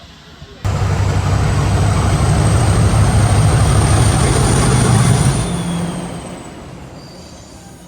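Steam locomotive noise: a sudden loud rush with a deep rumble and a faint high whine underneath, starting about half a second in, holding for about five seconds, then fading away.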